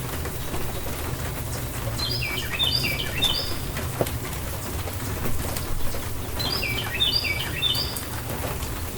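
Steady rain, with a low rumble underneath. Over it a songbird sings two runs of short phrases, each phrase a quick series of high notes stepping downward, a few seconds apart.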